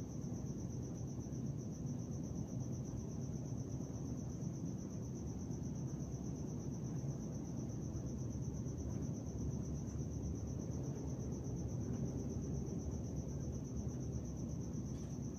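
Crickets singing in one continuous high, slightly pulsing trill over a steady low rumbling background noise, with a few faint ticks.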